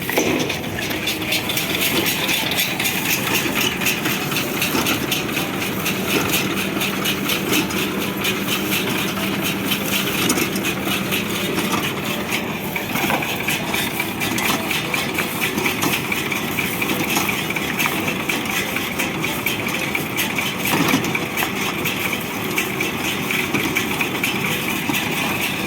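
Tractor engine running steadily with a small square hay baler working, a fast, even mechanical clatter throughout.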